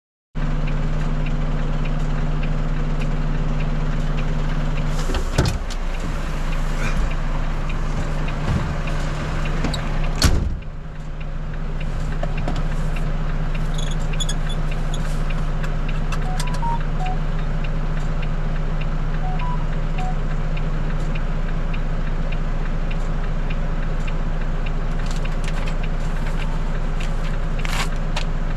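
Volvo FE 320 lorry's diesel engine idling steadily, with a clunk about five seconds in and a louder knock about ten seconds in.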